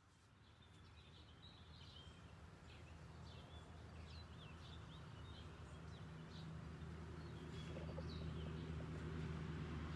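Songbirds chirping in many short calls, over a low steady hum that grows louder toward the end.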